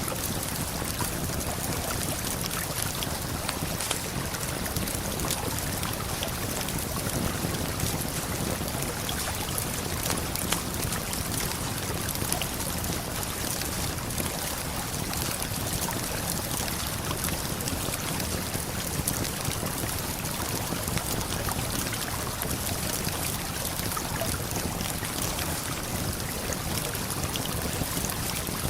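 Steady rushing of a waterfall and flowing river water, with faint scattered crackles from a campfire.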